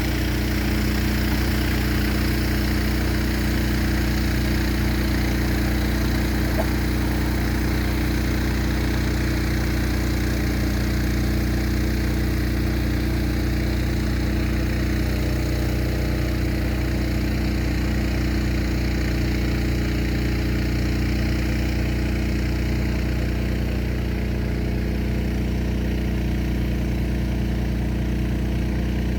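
Steady, unchanging machine hum: a low pitched tone with a stack of overtones and a rushing noise above it, from a running motor or engine.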